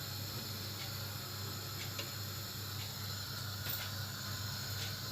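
Quiet kitchen background: a steady low hum with an even hiss, and a few faint light clicks.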